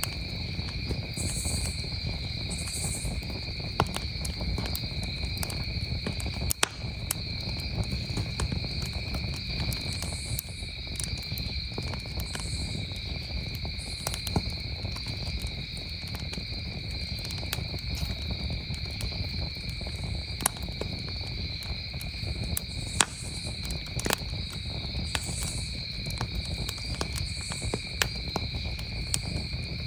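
Campfire crackling with scattered sharp pops over a low steady rumble, while crickets trill continuously in the background.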